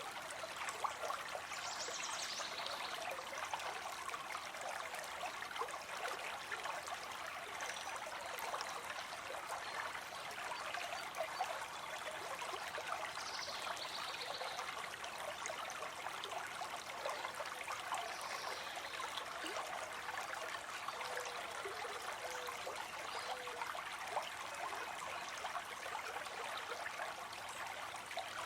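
Small stream trickling and babbling steadily, with a few faint brief higher sounds over the top.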